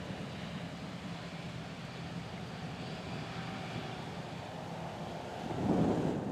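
Harvest machinery engines running steadily in the field, with a gust of wind buffeting the microphone near the end.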